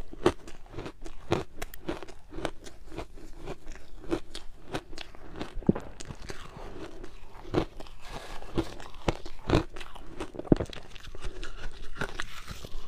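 Close-up crunching of ice being bitten and chewed, with sharp, irregular crunches about twice a second and grinding chewing between them.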